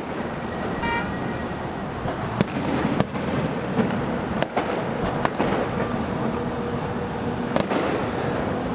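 Aerial firework shells bursting: several sharp bangs at irregular intervals over a steady rumbling crackle.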